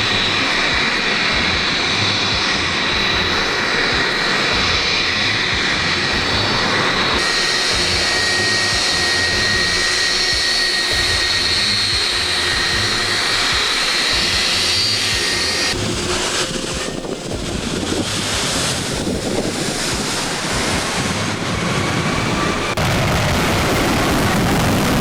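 Aircraft engine drone, loud and steady, with a few abrupt changes in tone where the footage cuts.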